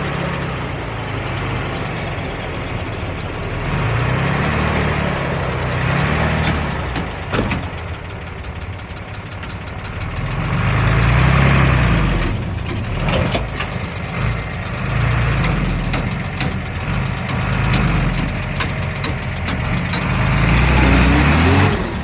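Bulldozer's diesel engine working, its pitch rising and falling as it is throttled up and down under load, with scattered sharp metallic clanks.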